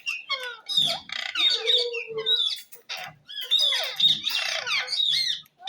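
Ringneck parrot squawking and chattering in a quick run of high, sliding calls, with a few brief pauses.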